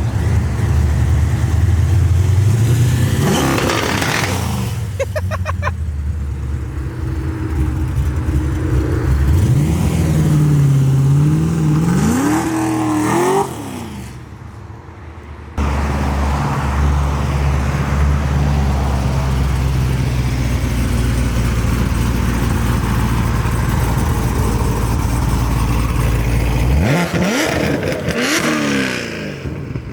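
Loud modified V8 cars revving and accelerating hard, starting with a Chevrolet SS fitted with an LT2 intake manifold. The engine pitch climbs steeply a few times. There is a sudden drop about 13 seconds in, then a steady heavy engine drone, and another rising rev near the end.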